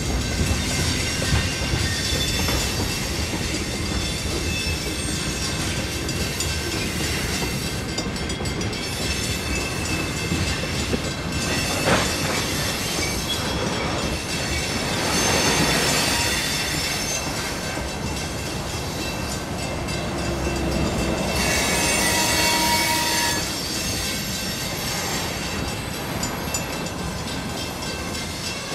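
Freight train of railroad tank cars rolling through a grade crossing, wheels clicking over the rail joints. There is a sharp clank about twelve seconds in, and high-pitched wheel squeal about halfway through and again later.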